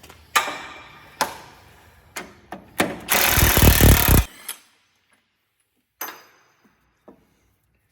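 A few sharp metal clanks from tools on the truck's running gear, then an impact wrench hammering for about a second, spinning off a shock absorber mounting bolt.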